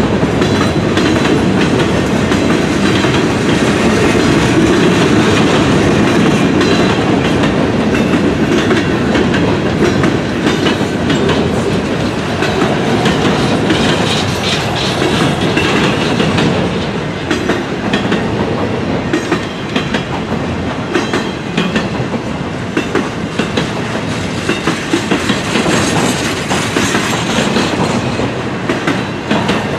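Train cars rolling past with a steady rumble. The wheels click over rail joints, and the clicks stand out more sharply in the second half.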